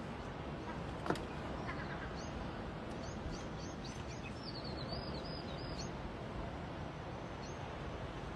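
Small birds chirping: a run of short, quick, high chirps from about two to six seconds in, over a steady outdoor background hiss. A single sharp click about a second in.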